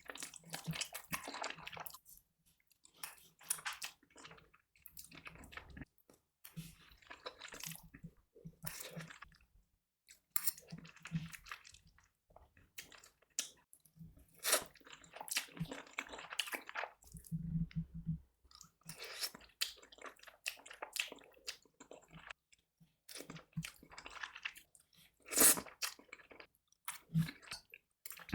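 A person chewing and eating instant masala noodles with tomato sauce: irregular wet mouth sounds, bites and smacks with short pauses between, the loudest smack about 25 seconds in.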